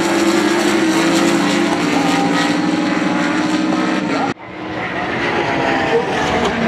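GT3 race car engines running hard in a steady, loud drone. The sound cuts off abruptly about four seconds in, then engine noise builds up again.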